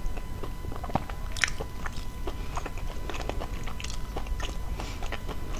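Close-up eating sounds: wet chewing with irregular lip smacks and mouth clicks, picked up by a clip-on microphone.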